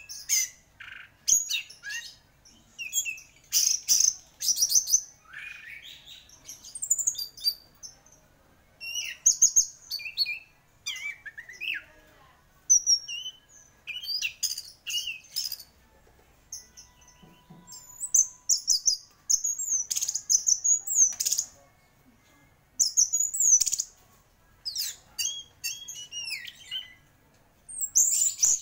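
Orange-headed thrush (anis merah) singing in quick, varied phrases of high whistles, chirps and rapid trills, with brief pauses between phrases.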